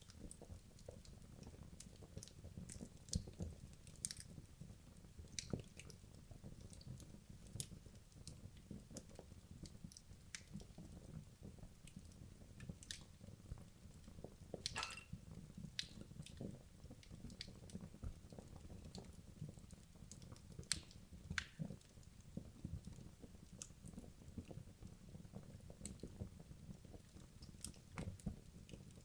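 Wood logs burning in a fireplace: a low steady rumble of the flames with irregular crackles and sharp pops from the burning wood, a few louder pops standing out.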